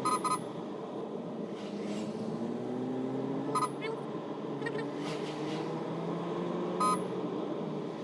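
A vehicle engine running, its pitch climbing slowly several times as it pulls and changes gear, with short high-pitched horn beeps: a double beep at the start, then single beeps about halfway and near the end.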